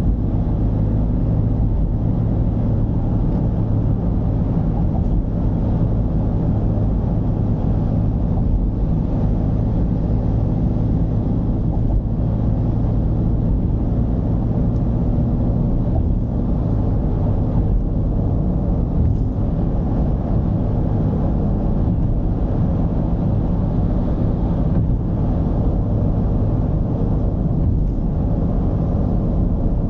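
Mercedes-Benz V220 d's four-cylinder diesel engine running under way, a steady low drone mixed with road noise.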